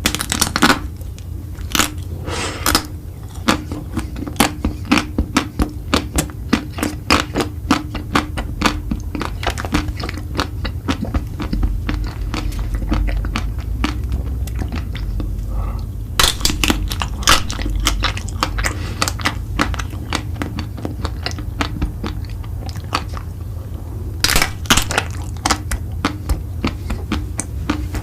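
Close-miked eating: a person biting and chewing crunchy food, with rapid crisp crunches in bursts, the densest about two seconds in, from about four to eleven seconds, around sixteen to nineteen seconds and near twenty-five seconds. A steady low hum runs underneath.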